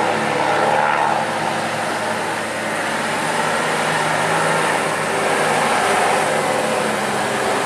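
Truck engine running steadily, a continuous engine drone with no break.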